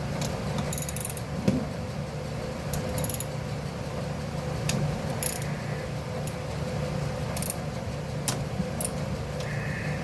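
Scattered metallic clinks and clanks of tools and parts being handled on a small engine, over a steady low hum.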